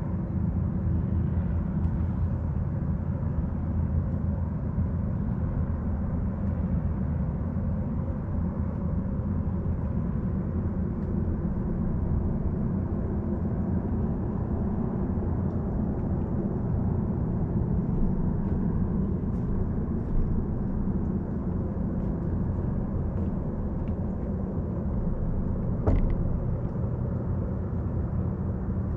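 Steady low drone of a distant motor engine, holding level with a constant hum in it, with a single sharp click about 26 seconds in.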